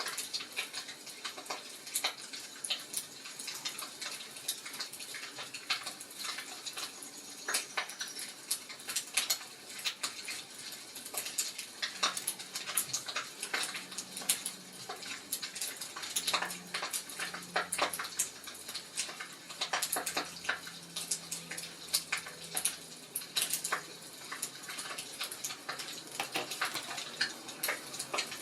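Wood fire crackling, with frequent irregular sharp snaps and pops over a soft hiss. A faint low hum runs under it through the middle.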